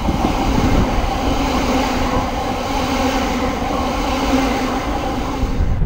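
Electric multiple unit passenger train running past at speed: a steady rush of wheels on rail and running gear with an even hum. It stops abruptly near the end.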